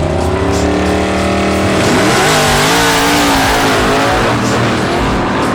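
Drag-racing car engine revving loudly. Its pitch holds steady at first, then wavers up and down about two seconds in, while a broad rush of noise swells toward the middle.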